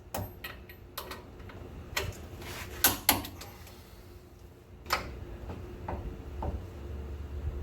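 Hand tools clicking and knocking on metal during suspension work: several sharp, separate knocks a second or so apart, then fainter taps, over a low steady hum.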